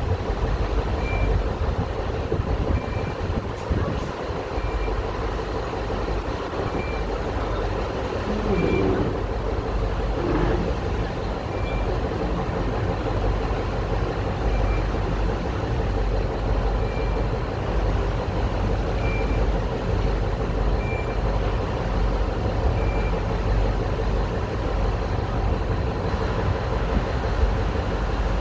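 The engines of the Venus Clipper river-bus catamaran running with a steady low rumble. Short high electronic beeps sound every second or two, at uneven spacing.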